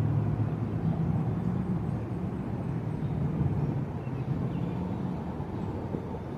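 A steady low mechanical hum, like a motor running, whose low pitched part fades about five seconds in.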